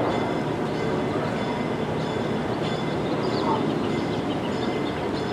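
Train running by: a steady rumble of engine and wheels on the rails, with a few faint high squeaks about three seconds in.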